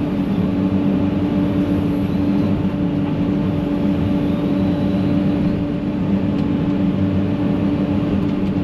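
Excavator's diesel engine running at a steady speed, an even drone with no change in pitch.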